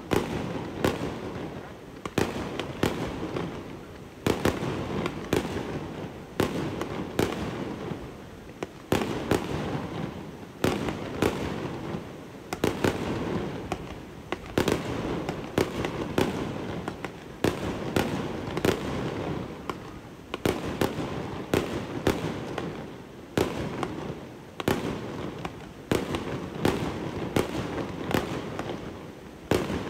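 Fireworks display: shells launching and bursting in quick succession, with sharp bangs every second or so.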